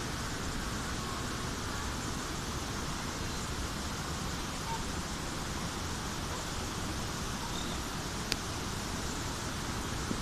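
Steady rush of falling water from the Agua Azul waterfalls, an even roar that does not change, with one sharp click about eight seconds in.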